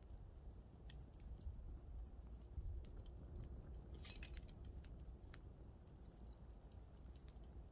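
Campfire crackling faintly: irregular sharp snaps and pops of burning wood, with a brief cluster of snaps about halfway through, over a low rumble.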